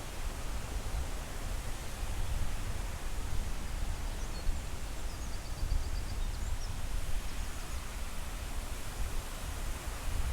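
Steady rushing noise of falling water from the Triberg waterfall, strongest in the deep low end. A few faint, short, high chirps come through midway.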